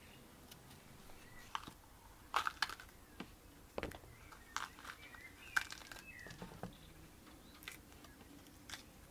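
Irregular light taps and clicks from food-preparation handling, with a few faint bird chirps in the background.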